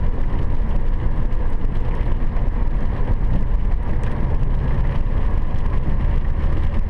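Steady road noise and engine hum inside the cabin of a moving car.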